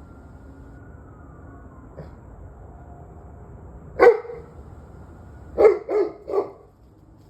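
A dog barking: a single bark, then a quick run of three barks about a second and a half later.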